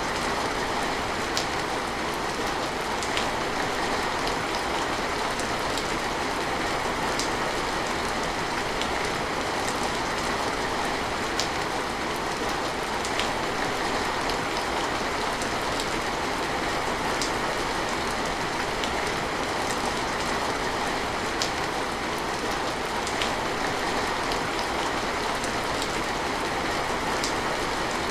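Steady heavy rain: a dense, even hiss with scattered sharper drop ticks.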